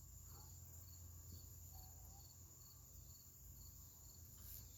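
Near silence: a faint low hum with faint insect chirping, short high chirps repeating at a regular pace.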